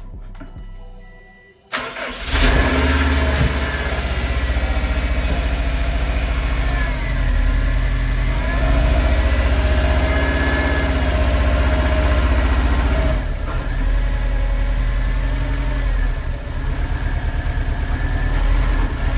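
A car engine cranks and starts about two seconds in, then idles steadily with a low rumble and small rises and dips in speed.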